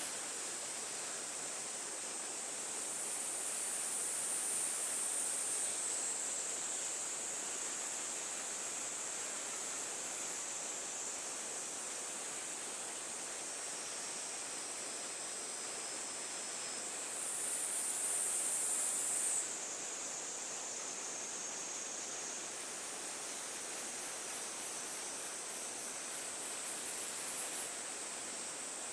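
A high-pitched insect chorus, steady trills with fast pulsing higher up, over an even outdoor hiss. It swells a little around four seconds in and again between about 17 and 19 seconds.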